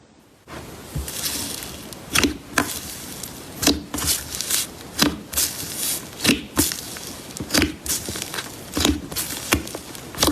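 Hands working a clear slime, squeezing and poking it: a run of wet clicks and pops, often two close together, about once a second.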